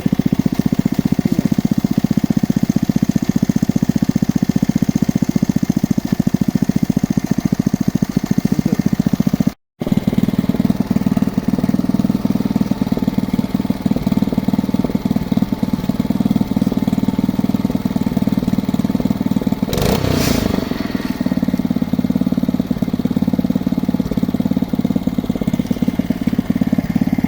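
Geological exploration drilling rig running, its engine loud and steady with a fast even pulse. A brief noisy burst lasting about a second comes near the middle of the second half, and the sound cuts out for a moment about ten seconds in.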